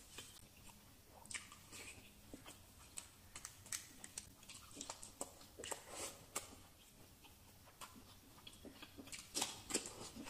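Close-miked chewing of a mouthful of rice and prawn curry: irregular mouth clicks and smacks, with a run of louder ones near the end.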